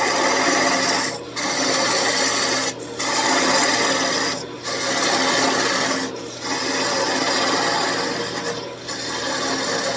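A wood lathe spinning a wooden blank while a hand-held turning tool cuts it, a steady rough scraping over the lathe's hum. The cut breaks off briefly five times as the tool is lifted between passes.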